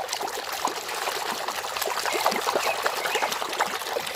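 Running water trickling and splattering in an uneven stream, as a muddy toy vehicle is rinsed clean.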